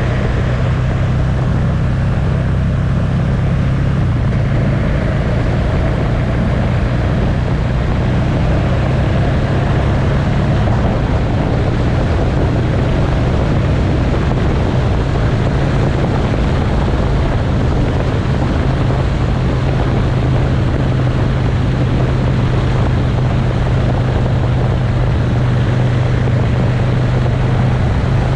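Motorcycle riding at a steady speed: a constant low engine hum under a steady rush of wind and road noise.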